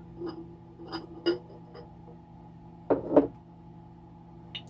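Glass sauce jars clinking and knocking against a glass dish: a few light taps, then two louder knocks about three seconds in, over a steady low hum.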